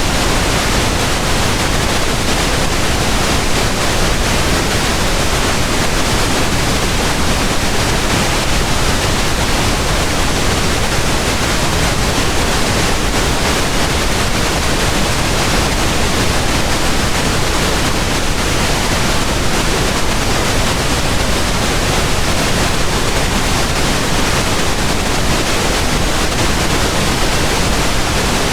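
Pink noise: a steady, even hiss spread across all pitches, with no changes or events.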